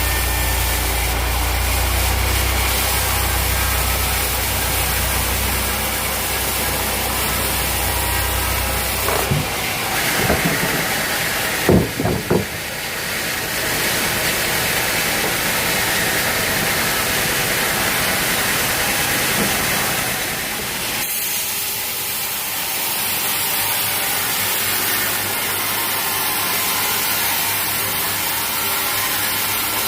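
Sawmill machinery running at a teak sawmill: a low motor hum that drops out about nine seconds in, a few knocks about twelve seconds in, then a steady hiss of machine noise.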